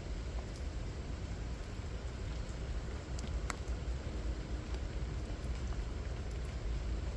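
Steady rain falling, with a few single drops striking close by, the clearest about halfway through.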